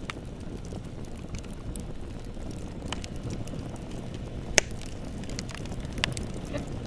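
Bonfire burning with a steady low rush and scattered crackles and pops; the sharpest pop comes about four and a half seconds in, another about six seconds in.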